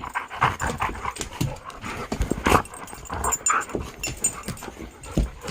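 Dogs nibbling at a person's skin: many quick, irregular clicks and smacks of teeth and mouths.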